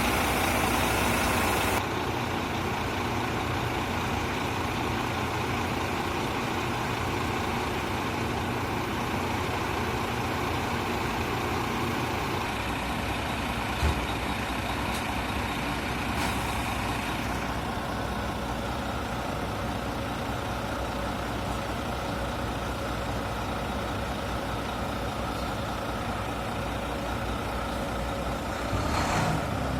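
Old truck engine idling steadily and running well. There is a single short knock about 14 seconds in and a brief louder moment near the end.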